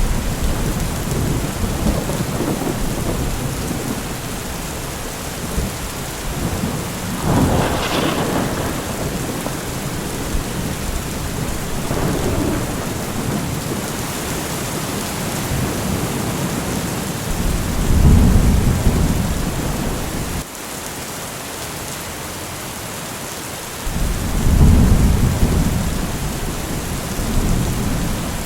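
Steady rain with thunder: a sharper thunderclap about a quarter of the way in, then deep rolling rumbles about two-thirds through and again near the end. The rain briefly dips quieter for a few seconds just after the middle.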